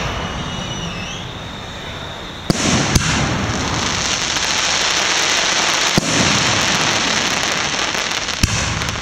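Aerial fireworks display: sharp bangs of shells bursting, four of them, the first about two and a half seconds in, over a dense crackling hiss that carries on through the rest.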